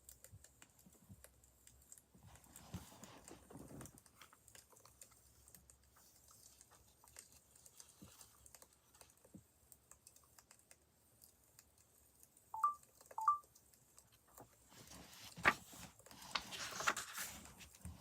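Wood fire crackling faintly, with sparse irregular snaps and pops. There are two short electronic beeps a little over halfway, then a louder pop and a brief burst of hissing crackle near the end.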